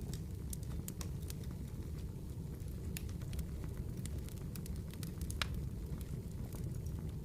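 Wood campfire burning: a steady low rush of flames with scattered sharp crackles and pops of burning wood, the loudest pop about five and a half seconds in.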